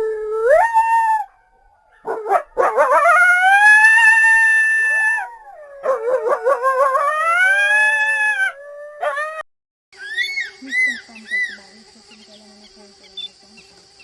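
A canine howling: several long drawn-out howls in a row, each sliding up in pitch, holding, then falling away. About ten seconds in the howling stops and gives way to short repeated chirping calls over a steady high tone.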